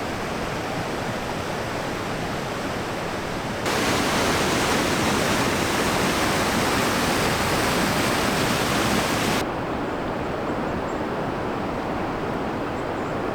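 Steady rush of river rapids. It jumps abruptly louder about four seconds in and drops back just as abruptly about nine seconds in.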